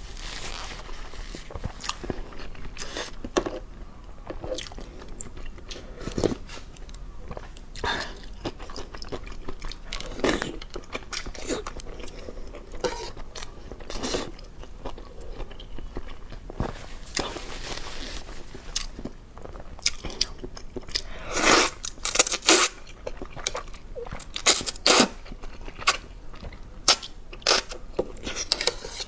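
A person chewing and crunching food close to the microphone, with irregular crisp bites. The bites grow louder and sharper in the last third.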